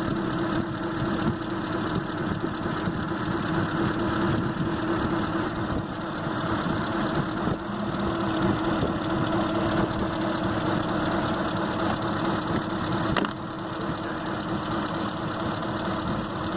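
Ford Expedition's 5.4-litre V8 idling steadily with a misfire: cylinders 7 and 8 are not firing because their coil drivers in the engine computer have failed. A single click near the end.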